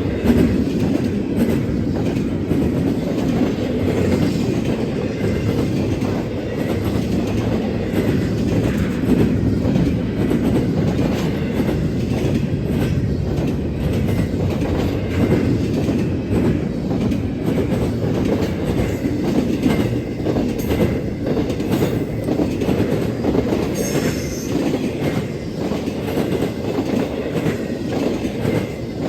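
A CSX freight train's cars rolling past: a steady rumble, with the clickety-clack of wheels over the rail joints.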